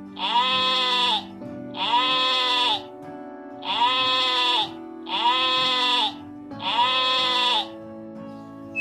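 A farm animal bleating: five near-identical calls, each about a second long, that rise and fall in pitch, over steady background music.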